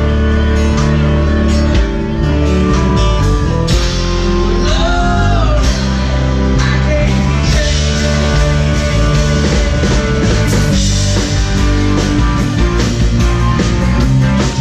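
Rock music: a band playing with electric guitar and singing.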